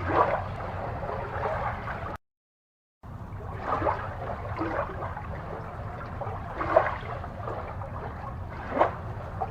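Water gurgling and bubbling over a steady low hum, with short louder bubbly swells every few seconds. The sound cuts out completely about two seconds in and returns about a second later.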